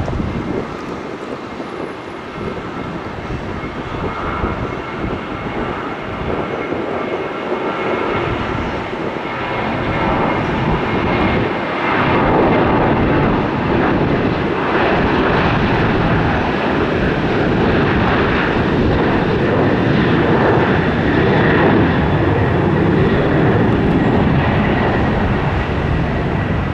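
Airliner jet engines running as an aircraft passes, a wide roar with a faint steady whine that swells about halfway through and stays loud.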